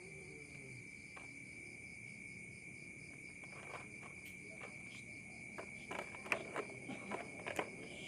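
Steady, high-pitched insect trilling, with scattered light clicks and knocks in the second half.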